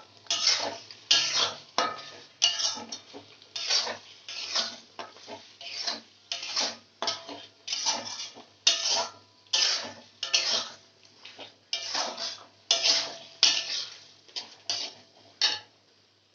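A cooking spoon scraping and stirring around a pan in quick repeated strokes, about one and a half a second, working a cashew-poppy seed paste into the masala. The stirring stops about a second before the end.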